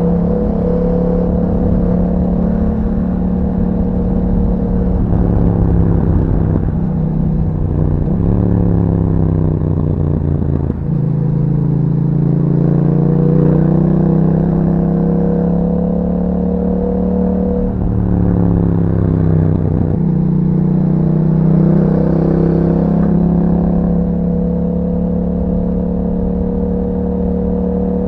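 A 2021 Yamaha MT-07's 689 cc parallel-twin engine running through an Akrapovič exhaust while the bike is ridden. The engine note runs steadily and several times dips and climbs again as the revs change.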